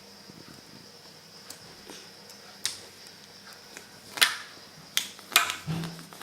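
Sharp plastic clicks and knocks of Play-Doh tools and molds against a table: a few scattered taps, the clearest four in the second half, the loudest about two-thirds through.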